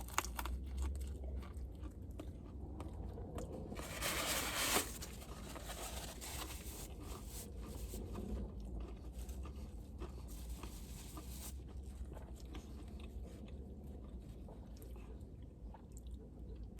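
A person biting into and chewing a fried chicken slider, with crunching from the fried breading, over a low steady hum.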